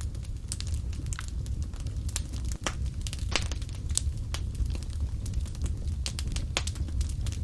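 Wood fire crackling in a fireplace: frequent irregular pops and snaps over a low, steady rumble.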